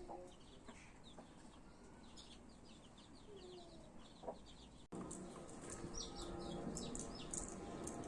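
Birds chirping over and over in short high notes, with a few lower drawn-out clucking calls of the kind a hen makes. About five seconds in there is an abrupt cut, after which a steady hum sits under denser, higher chirping.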